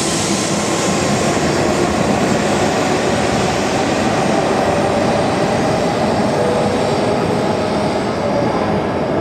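Shinkansen train moving along the station platform: a loud, steady rush of running noise from wheels and motors, its highest hiss easing slowly over the seconds.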